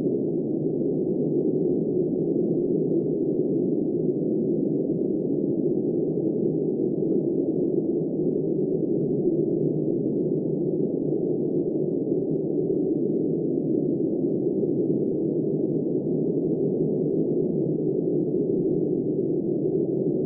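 Steady, muffled blizzard wind: a deep, even rush with no high hiss and no gusts or breaks.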